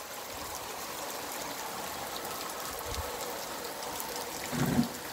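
Rain easing off, falling steadily onto wet ground, with runoff water streaming over a dirt road: an even hiss with scattered drop ticks. A brief low bump comes near the end.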